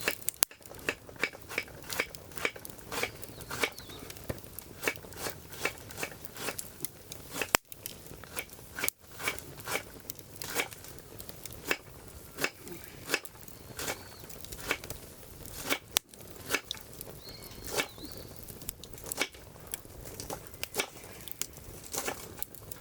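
Firewood burning in a campfire, crackling with frequent, irregular sharp pops and snaps.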